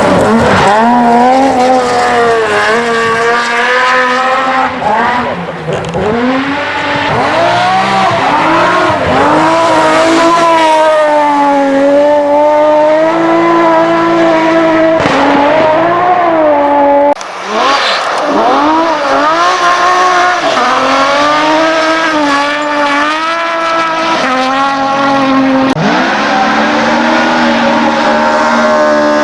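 Rally car engines revving hard, pitch climbing and falling again and again with gear changes and lifts off the throttle. The sound breaks off abruptly about seventeen seconds in, and another run of hard revving picks up.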